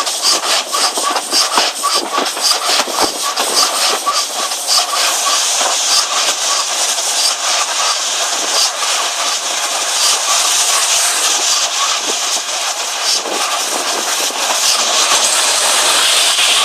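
Steam train running, with a regular beat about two to three times a second over a steady rushing noise and clicks. The hiss grows louder near the end.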